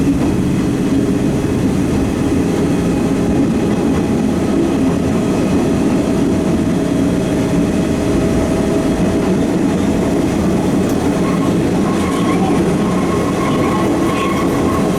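Eizan Electric Railway Kurama Line electric train running along the track, heard from inside the car: a steady rumble of wheels and motors. A thin whine comes in during the last few seconds.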